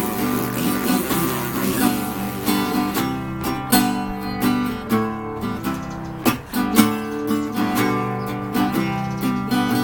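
Acoustic guitar strumming chords in a steady rhythm, an instrumental break between sung verses.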